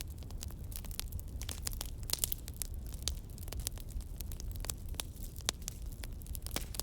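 Campfire burning, with frequent irregular sharp crackles and pops from the wood over a steady low rumble.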